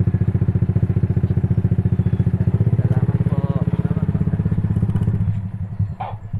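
Small motorcycle engine idling with a steady, rapid putter. A little over five seconds in the running changes and the level turns uneven.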